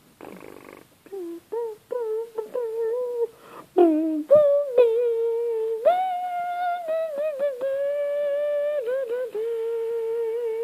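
A person humming a wordless tune in long held notes with short slides between them, starting about a second in after a brief breathy rustle.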